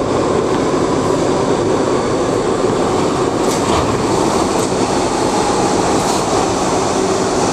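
R62A New York City subway car running steadily along the track, heard from inside: a continuous rumble of wheels on rail with a faint steady tone and a few faint clicks.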